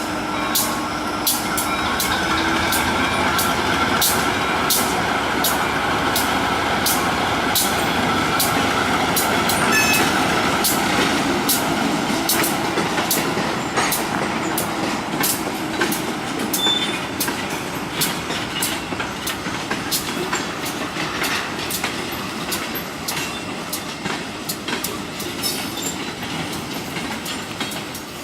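A train rolling past, its wheels clicking regularly over the rail joints. A steady tone sits on top of the rumble for the first ten seconds or so, and the sound is loudest about ten seconds in, then slowly eases off.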